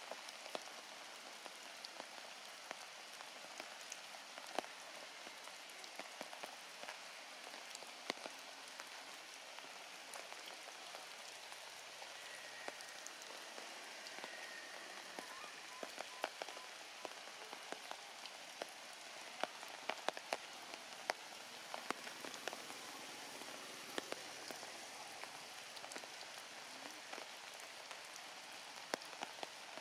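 Rain falling steadily, a constant hiss with many scattered sharp ticks of drops striking close by.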